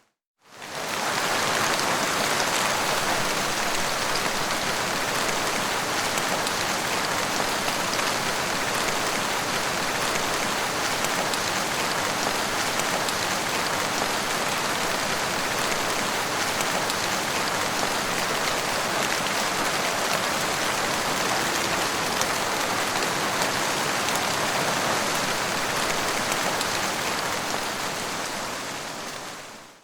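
Steady rain falling, a dense even hiss with no thunder. It fades in just after the start and fades out near the end.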